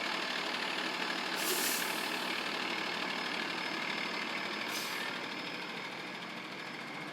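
An engine idling steadily, with two short bursts of hiss about one and a half and five seconds in.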